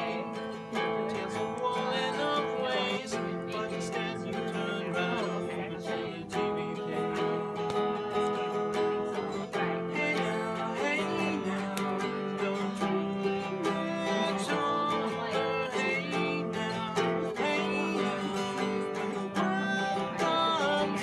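Acoustic guitar played live, a steady picked and strummed folk or country tune.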